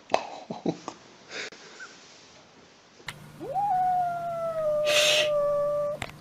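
Grey tabby kitten giving one long drawn-out cry that rises quickly, then is held and slowly sinks for about two and a half seconds, starting about halfway in. A short breathy hiss sounds over the middle of the cry, and a few faint knocks come before it.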